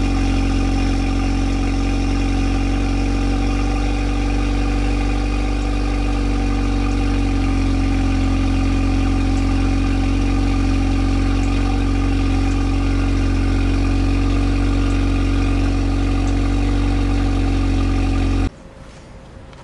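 Exhaust of a Pontiac Solstice GXP's turbocharged 2.0-litre four-cylinder, fitted with a catless downpipe and a GMPP tune, idling steadily. The sound cuts off suddenly near the end.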